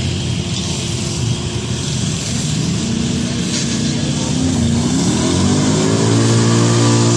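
Pulling tractor's engine running hard, its pitch climbing steeply about five seconds in and then holding high and loud.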